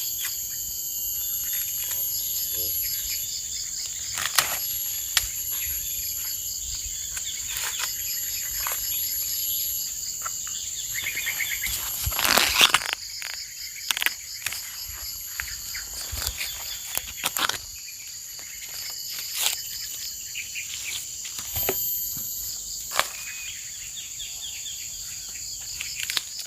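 Insects droning steadily at a high pitch with birds chirping, over scattered snaps and rustles of corn plants as ears are picked, the loudest a burst of leaf rustling about halfway.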